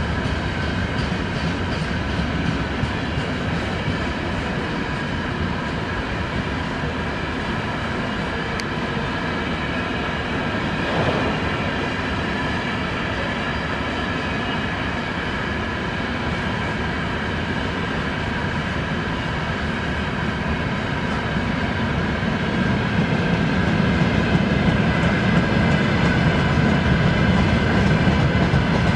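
Freight train rolling by, a steady rumble of wagon wheels on the rails with a few faint steady whining tones over it. It grows somewhat louder over the last few seconds.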